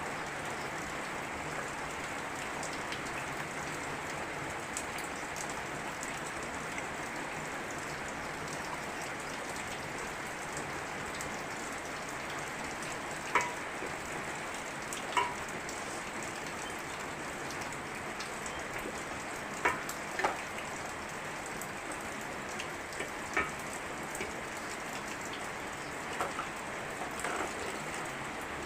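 Steady rain falling, an even hiss, with a handful of louder single drops or taps scattered through the second half.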